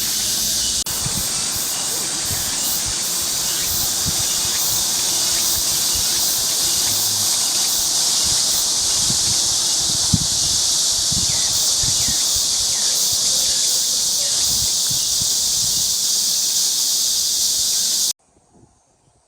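Loud, steady chorus of cicadas buzzing, cutting off suddenly about eighteen seconds in.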